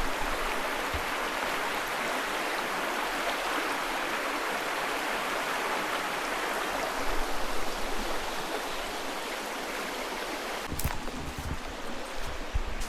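Water of a spring-fed river rushing steadily, with a few low thumps near the end.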